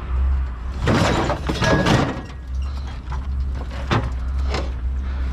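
Metal parts of a scrapped appliance being worked on and taken apart: a rattling, scraping clatter for about a second, then a few sharp knocks, over a steady low hum.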